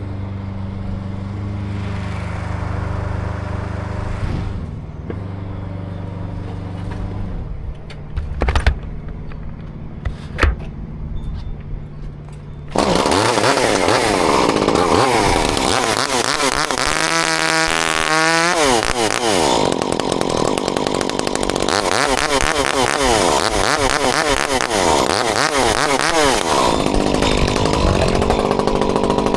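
An engine hums steadily at idle, with two sharp knocks. A little under halfway through, a chainsaw comes in loud and keeps running, revving up and down as it cuts wood.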